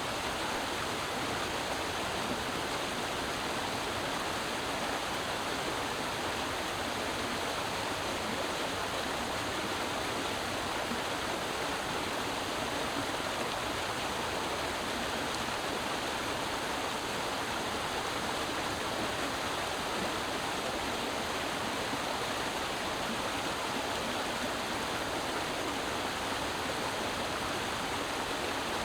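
Creek water flowing and rushing in a steady, unbroken stream.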